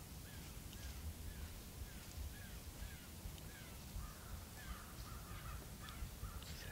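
Faint calls of a bird: a steady series of short arched notes, about two a second, turning into a busier run of chirps about four seconds in.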